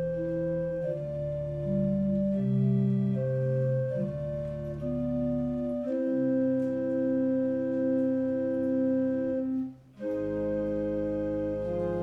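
Organ playing slow sustained chords, the notes held and changing about once a second; the music stops for a moment about ten seconds in and then starts again.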